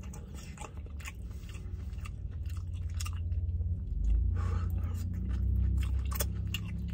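A person chewing a mouthful of stir-fried noodles, with irregular wet mouth clicks and smacks over a low, steady hum.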